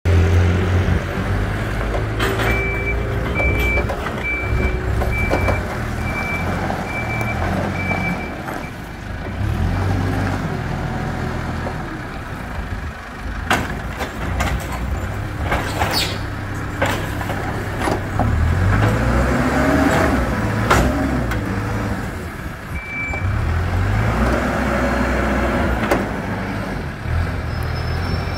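Hidromek 102S backhoe loaders' diesel engines running and revving under load, with a reversing alarm beeping steadily for several seconds early on and briefly again near the end. A few sharp metallic clanks ring out in the middle.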